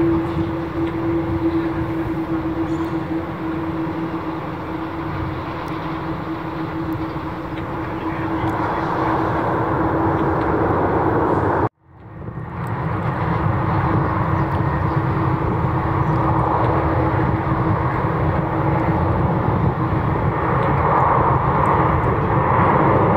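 Jet aircraft engine noise: a steady rumble with a low hum, cut off abruptly about halfway through and picking up again, growing louder near the end.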